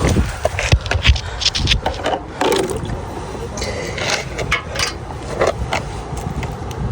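Rustling and scraping handling noise from a phone or camera carried while running, with irregular sharp clicks over a low wind rumble on the microphone.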